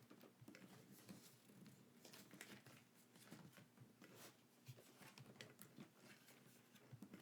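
Faint handling noises: light clicks, taps and rustling, typical of paper and plastic packaging and merchandise being handled.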